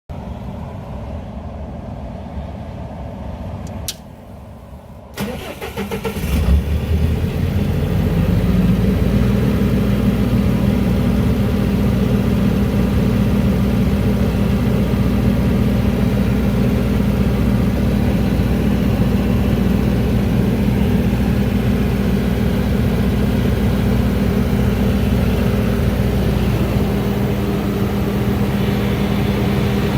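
Multiquip MQ 70 portable diesel generator being started: a click about four seconds in, a second or so of the starter cranking, then the diesel catches, revs up and settles into steady running. A low hum lies under the first few seconds, before the start.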